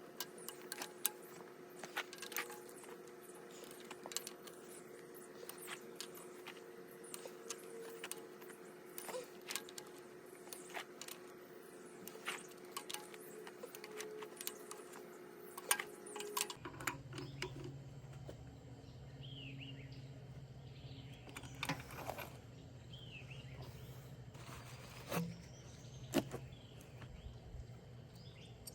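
Scattered sharp metallic clicks and clinks, like hand tools at work, over a steady hum. About two-thirds of the way in the background changes abruptly to a lower hum with a few bird chirps and occasional clinks.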